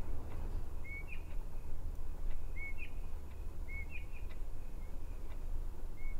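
A bird chirping at night: short, quick chirps repeated roughly once a second over a steady low hum, with a few faint ticks.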